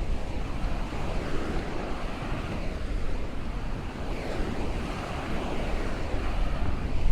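Waves breaking and washing along a beach, the surf swelling and easing, with wind buffeting the microphone.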